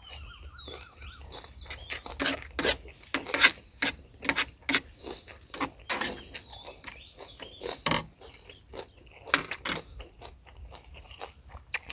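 Close-up eating sounds: irregular crunching and chewing clicks from a mouthful of food. Behind them is a steady high chirring of insects.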